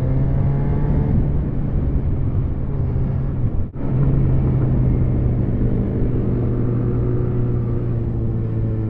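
Yamaha FZ1 Fazer's inline-four engine running at steady cruising revs, heard from a helmet camera. The sound briefly cuts out about four seconds in.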